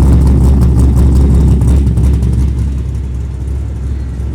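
A car engine running loudly close by with a deep low rumble, growing quieter over the last two seconds as it moves away.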